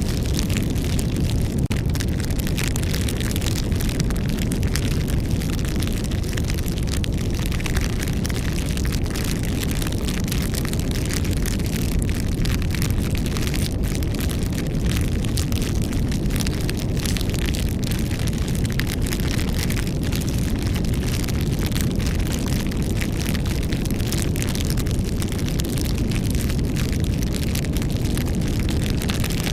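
Campfire burning: dense crackling of wood over a steady low rumble.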